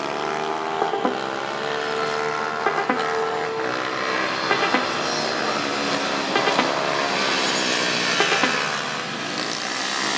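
Several pitbike engines running hard together, their pitch rising and falling as they rev, with a few short sharp pops among them.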